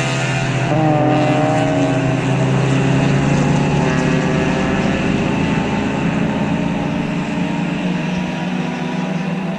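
Race car engines at high revs as cars go by on track. One engine's pitch falls away as it passes about a second in, while another holds a steady note.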